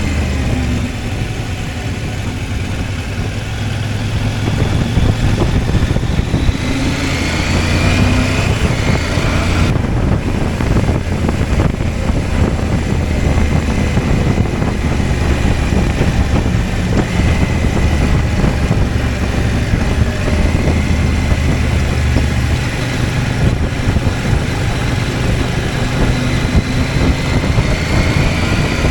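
CFMOTO 800MT's parallel-twin engine running steadily under a broad rush of wind noise. The engine note rises as it accelerates about six seconds in and again near the end.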